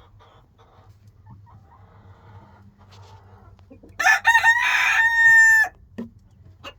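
A rooster crowing once about four seconds in: a choppy opening and then a long held final note, about a second and a half in all. Faint hen clucking comes before it.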